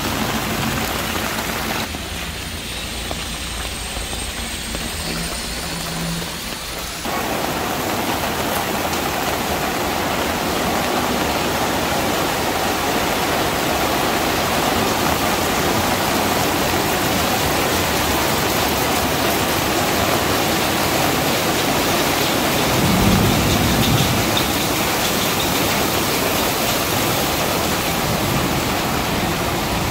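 Heavy rain falling in a steady hiss, with a low rumble swelling briefly about two-thirds of the way through.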